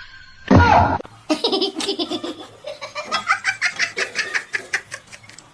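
A person laughing hard in a long run of rapid bursts, just after a short loud cry near the start.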